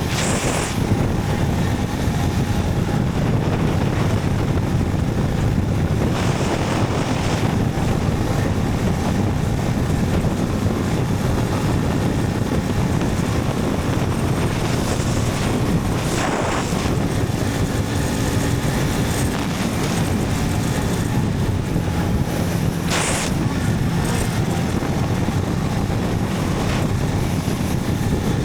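Motorcycle on the move: a steady low engine and road rumble with wind buffeting the microphone, and four brief hissing swells along the way.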